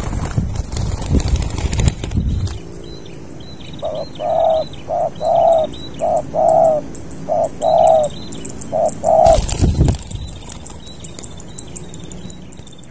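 Spotted dove (tekukur) cooing: a rhythmic phrase of about five short-long coo pairs. Rustling noise comes before the calls and again just after them.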